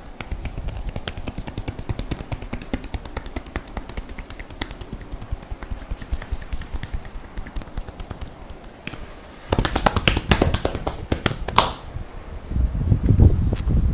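Hands massaging a person's upper back and shoulders: a rapid run of light taps and rubbing on skin, growing louder and sharper for about two seconds two-thirds of the way in, then heavier dull thumps near the end.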